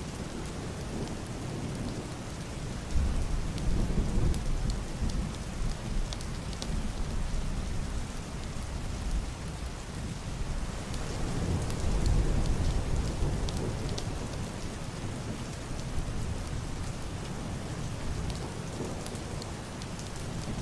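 Heavy rain pattering on a roof and window glass, with individual drops ticking through a steady hiss. Deep, muffled distant thunder rolls in about three seconds in and again around the middle.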